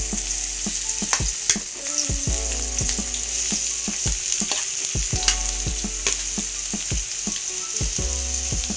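Chopped onion sizzling in hot oil in an aluminium kadhai, a steady frying hiss, with scattered clinks of a spoon against the pan and bowl.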